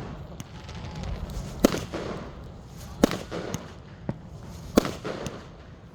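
Fireworks going off: a string of about six sharp bangs, each followed by a short rumbling echo, the loudest a little under two seconds in.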